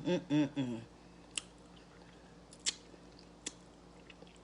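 Wet mouth noises of someone eating stewed salmon head: after a brief voiced murmur, four sharp smacks and clicks about a second apart as the pieces are chewed and sucked.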